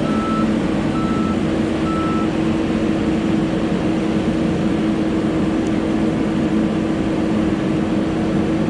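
Diesel engine of a log loader running steadily under load, with a travel/backup alarm beeping three times at about one-second intervals in the first two seconds, then only the engine drone.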